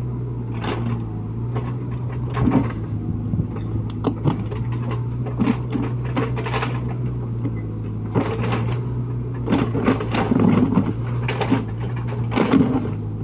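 Mini excavator's engine running with a steady low hum, with irregular knocks and scrapes over it as the machine works.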